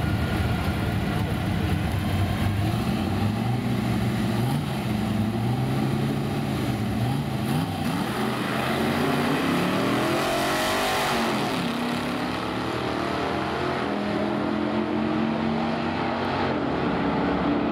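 Car engines running at varying speeds, with a vehicle passing close by about ten seconds in, its pitch rising and then falling.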